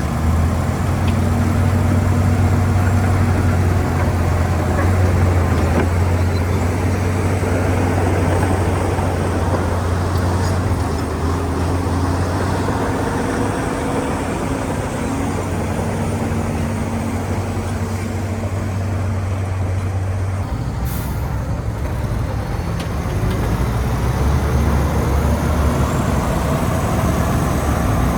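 Heavy earthmoving machine's diesel engine running under load with a steady low drone. About twenty seconds in the engine note drops lower.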